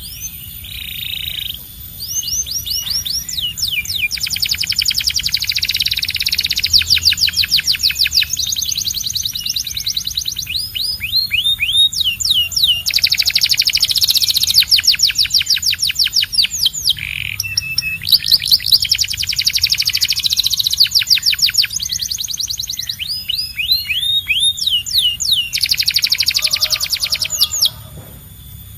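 Domestic canary singing a long, loud song: runs of very rapidly repeated notes lasting a few seconds each, alternating with short series of downward-sweeping whistles.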